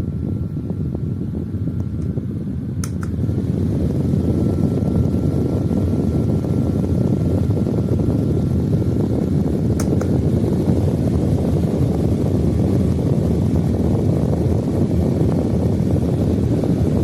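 VTHW USB desk fan running with a steady, low rush of air. About three seconds in there is a click, after which it runs louder; another click comes around ten seconds in.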